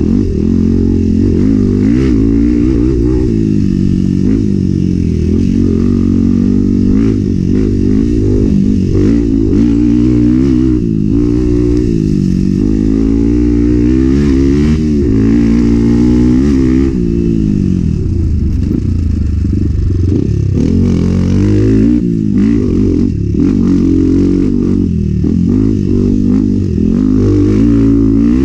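Enduro dirt bike engine running hard, its pitch rising and falling constantly with throttle and gear changes.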